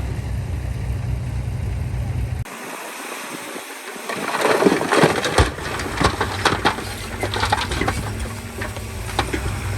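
Heavy earthmoving machine's diesel engine running steadily. After an abrupt change a couple of seconds in, dirt and rocks crunch and clatter over the engine, loudest about halfway through.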